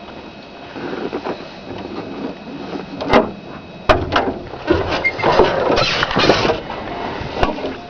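Cowbell clanking irregularly, with single strokes and a dense run of clanks in the middle, over a steady rush of wind.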